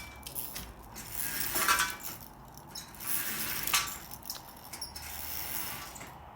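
Mechanical handling noise: a few short scrapes and several sharp clicks and rattles, spaced irregularly.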